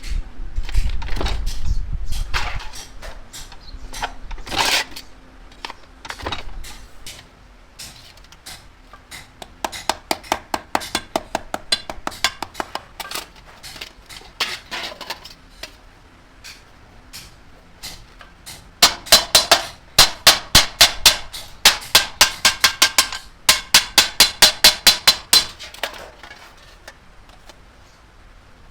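A hammer beating sheet metal in hand-forming. Scattered knocks and a low rumble come first, then a quieter run of quick taps, and later a louder run of ringing strikes, about three a second.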